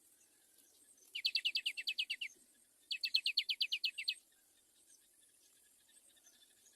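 A bird gives two rapid chattering trills, each about a dozen quick, high notes, with a short pause between them, over a faint high insect hiss.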